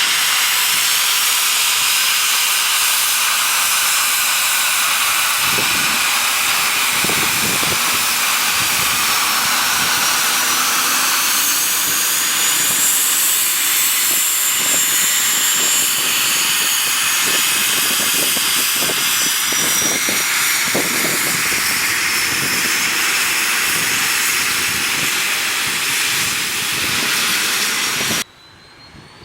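Cessna Citation Mustang's twin Pratt & Whitney PW615F turbofans running close by: a loud steady hiss with a high-pitched whine that drifts slowly in pitch. It cuts off abruptly about a second before the end.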